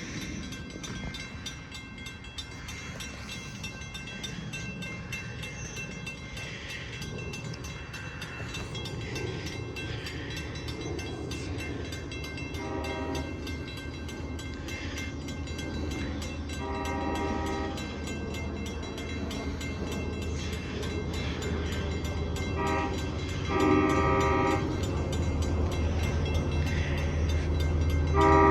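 Diesel passenger locomotives sounding their Nathan K5LL five-chime air horns as the train approaches: a short blast, a longer one, a short-long pair and another at the end. A low diesel engine rumble grows louder in the last few seconds.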